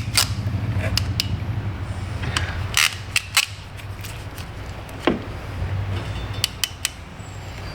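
Scattered light clicks and clacks of hand tools and small cable-splice parts being handled, over a steady low hum.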